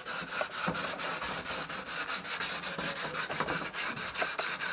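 Fast, continuous rubbing strokes of an abrasive on wood, smoothing the trimmed fiberglass edges of the canoe's plywood panels.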